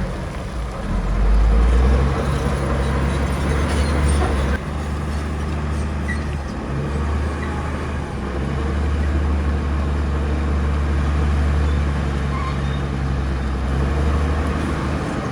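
Diesel engine of heavy earthmoving machinery running steadily with a deep, low drone that swells and eases slightly.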